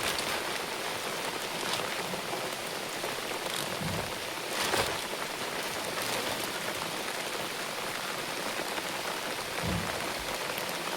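Steady rain falling, with scattered sharp ticks and a couple of dull low thumps.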